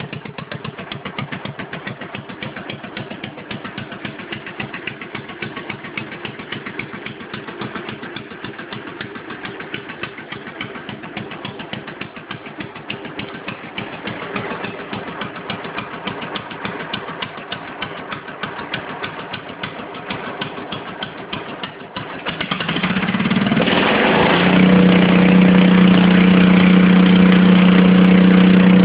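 Stock 10 hp Cub garden-tractor puller engine idling with a fast, even beat, then revved up about 22 seconds in and held at a high, steady speed near the end.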